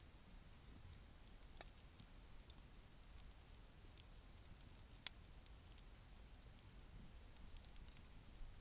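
Wood campfire crackling faintly: scattered small pops and ticks, with two sharper pops, one early and one about five seconds in.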